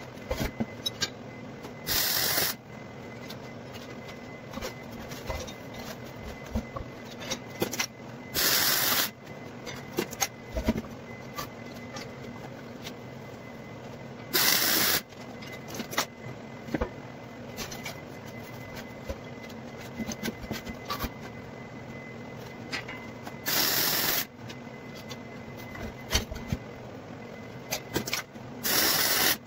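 Electric welder making short tack welds on steel hoops: five brief bursts of arc crackle, each about half a second to a second long, a few seconds apart, over a steady background hum with scattered clicks.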